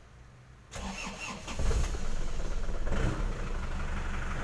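Isuzu Panther LM's 2.5-litre diesel engine started: the starter cranks briefly about a second in, the engine catches and then settles into a steady idle.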